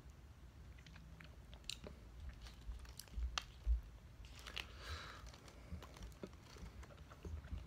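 Close-up mouth sounds of someone eating soft fruit jelly from a plastic spoon: quiet wet chewing and small clicks, with a few louder clicks about three to four seconds in.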